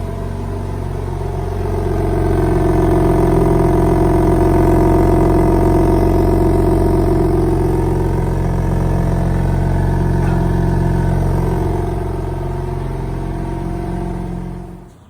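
2023 BMW M4's twin-turbo straight-six running through its stock exhaust, before the aftermarket exhaust is fitted. It grows louder about two seconds in, eases slightly later on, and cuts off just before the end.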